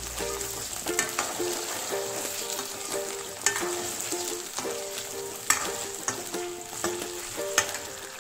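Potato chunks sizzling as they fry in hot oil in a metal kadhai, stirred with a steel ladle that gives several sharp clinks and scrapes against the pan.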